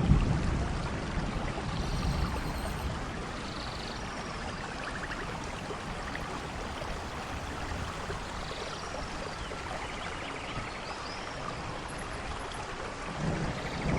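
Steady hiss of rain and running water, with a few faint high chirps. A low rumble of thunder builds about a second before the end.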